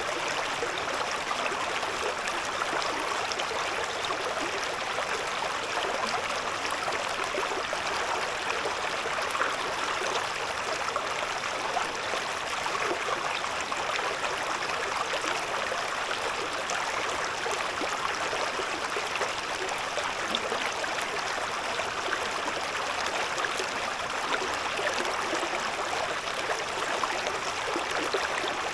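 Shallow river babbling steadily over stones, a continuous splashing and gurgling.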